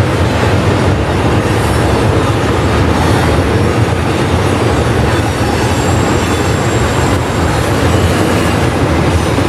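Freight train rolling past close by: a steady, loud rumble of steel wheels on rail.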